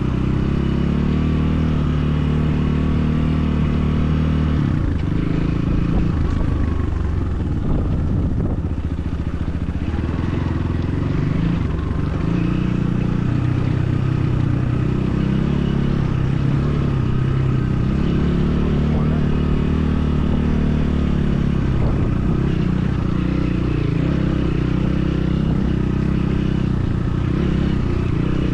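BSE enduro motorcycle engine running as the bike is ridden along. Its pitch holds steady for a few seconds at a time, then shifts up or down with throttle and gear changes.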